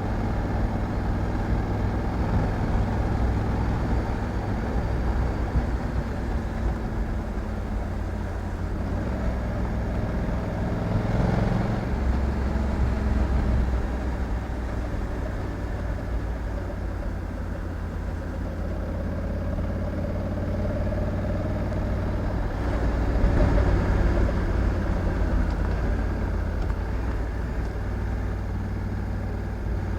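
Honda Africa Twin 1100's parallel-twin engine running steadily. It grows briefly louder twice, about a third of the way in and again past two-thirds.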